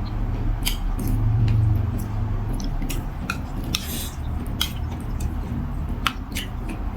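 Spoon and chopsticks clicking against a bowl, a dozen or so short scattered clinks while eating noodle soup. Under them is a steady low rumble, loudest about one to two seconds in.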